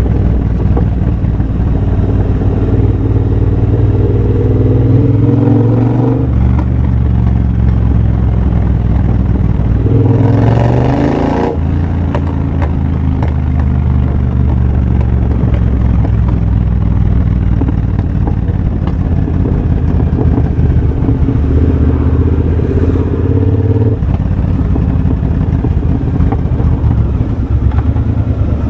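2023 Triumph Bobber's parallel-twin engine running through a de-catted TEC X-pipe and Motone shorty exhaust while riding. The engine note steps in pitch a few times as the throttle and gears change, with a short, louder rev near the middle.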